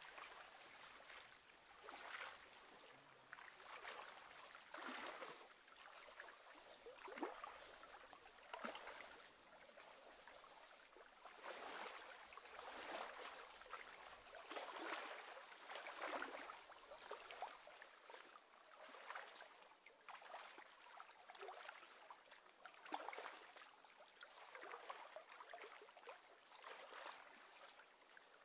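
Faint, irregular lapping and splashing of small waves on choppy lake water, swelling every second or two.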